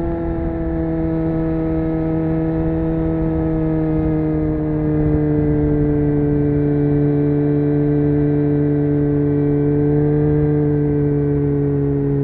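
Honda CBR600F's inline-four engine running at steady high revs, its pitch easing slowly and evenly downward with no gear changes.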